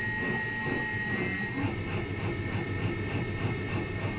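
Suspension test machine (shock dyno) stroking a motorcycle rear shock absorber in a rapid rhythmic cycle, about four strokes a second, with a steady high whine over it, as it runs a damping test at a new rebound/compression setting.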